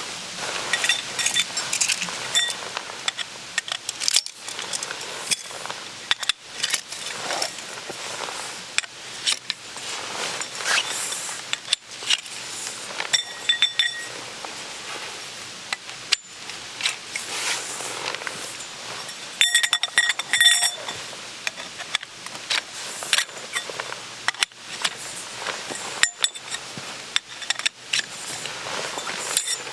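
Hands handling camp gear: rustling and many small knocks and clicks, with metal pieces clinking and ringing briefly a few times, strongest about twenty seconds in.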